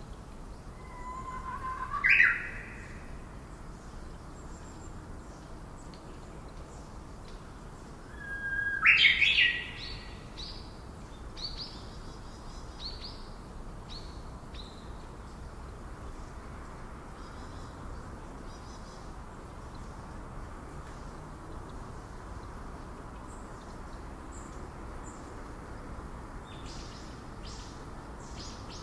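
Birds calling in a rainforest. There are two loud calls, about two seconds and nine seconds in, each a rising whistle that ends in a sharp snap, followed by scattered short, high chirps.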